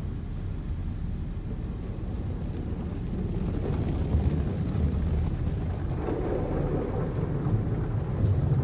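High-pressure water jets of a touchless car wash spraying onto the car, heard from inside the cabin as a steady low rush that grows louder about three seconds in.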